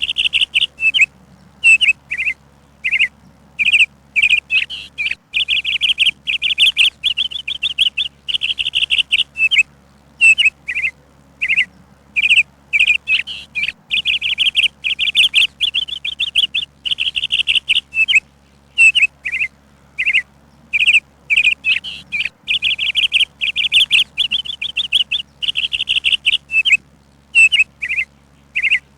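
Bird chirping in quick, high trills and short calls, coming in bursts of up to about a second and a half with brief pauses between.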